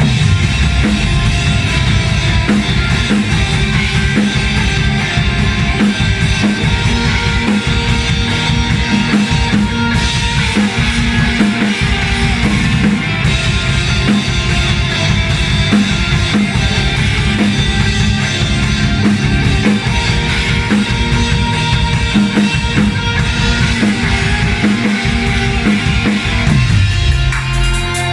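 Live rock band playing loud with drum kit and electric guitar, in an instrumental passage with no singing.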